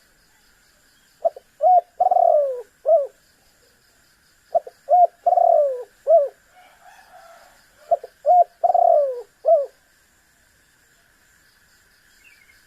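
Spotted dove (tekukur) cooing: three phrases, each a few short coos around one longer, falling coo, with a faint steady high hiss underneath.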